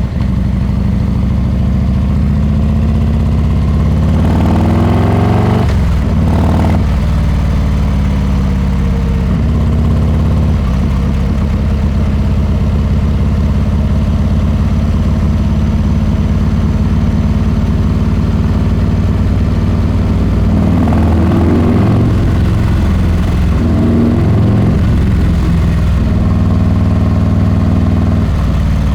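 Harley-Davidson Heritage Classic 114's Milwaukee-Eight V-twin running through a Rinehart exhaust, holding a steady note. It revs up with a rising pitch about four to six seconds in, and rises again in a few shorter pulls after about twenty seconds.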